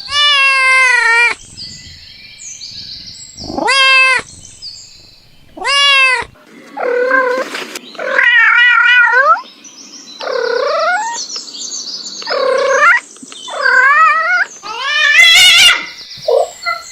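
Domestic cats meowing, about ten meows in a row with short gaps between them. Some are short and some are long, drawn-out calls that waver in pitch, and there are two quick short ones near the end.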